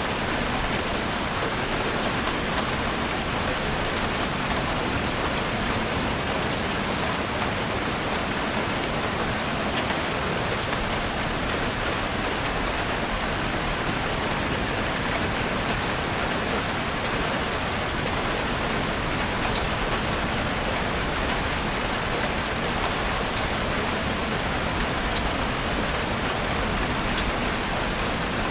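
Heavy rain drumming on a roof, a steady dense patter of drops with no let-up.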